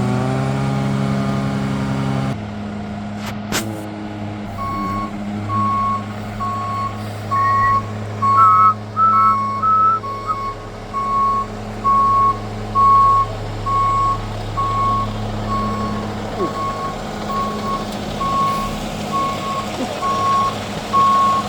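Peterbilt McNeilus front-loader garbage truck's diesel engine revving up, then settling to a steady run while its reversing alarm beeps about once a second.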